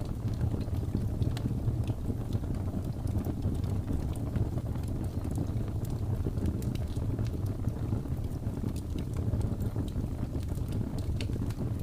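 Wood fire crackling, with scattered sharp pops and snaps, over a steady low rumble of wind.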